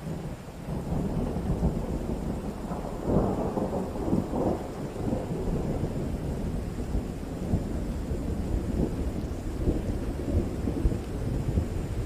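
Rolling thunder rumbling over steady rain. It swells in right at the start and is loudest about three to four and a half seconds in.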